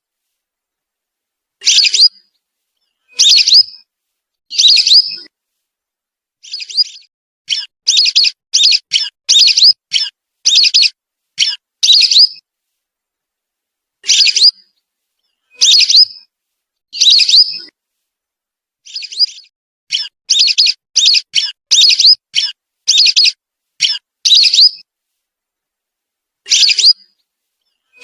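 Recorded whistling duck calls played as a lure call. Short, rising whistled notes come singly and in quick runs of several, with silent gaps between the groups.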